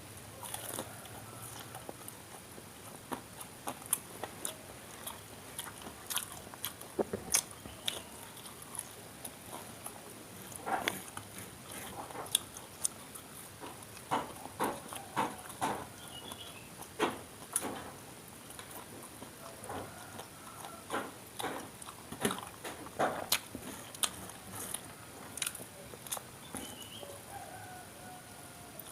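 A person biting into and chewing crunchy fried tofu and tempeh (Indonesian gorengan), heard as irregular crisp crunches and wet mouth sounds.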